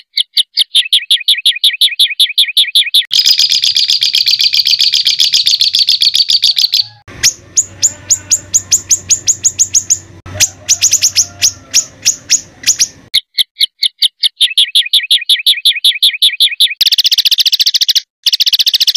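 A songbird singing rough, rapid-fire 'tembakan' phrases: fast trains of evenly repeated sharp notes, in several runs broken by short pauses.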